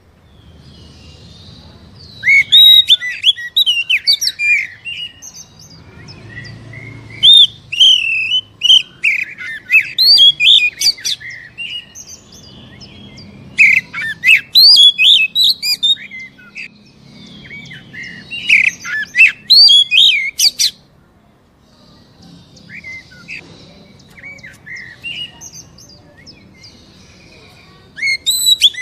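Oriental magpie-robin (kacer) singing loud, fast phrases of varied whistled notes that sweep up and down. The phrases come in bouts of a few seconds with short pauses between them. It is a fired-up song of the kind played as a lure to set other kacer singing.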